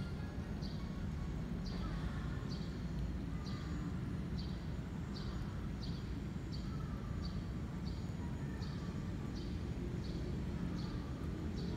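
Outdoor ambience: a bird repeats a short high chirp about every 0.7 seconds over a steady low rush, with fainter calls from other birds.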